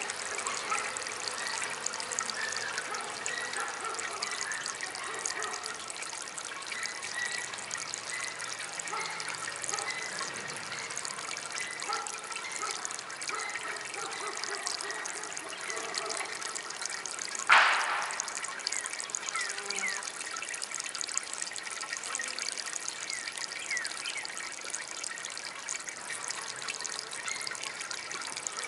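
Water trickling steadily in a small DIY fountain. About two-thirds of the way through there is one sudden, loud, short sound that is not identified.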